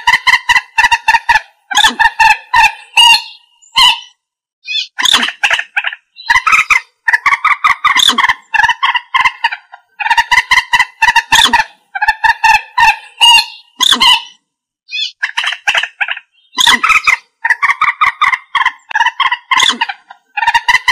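Common moorhen calling: loud series of rapid, short notes in bursts of a second or two, repeated with brief gaps between them.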